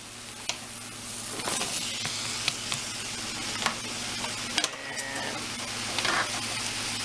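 Sliced white onion sizzling as it goes into hot beef fat in a cast iron skillet, the frying hiss growing louder about a second in. A few sharp clicks come through the sizzle.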